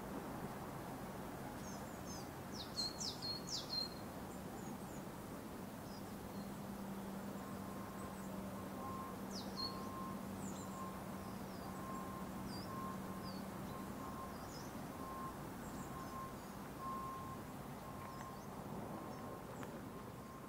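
Small birds chirping outdoors: a quick cluster of sharp, high chirps about two to four seconds in, then scattered single chirps. Underneath runs a faint steady low hum, and from about a third of the way in a faint broken tone.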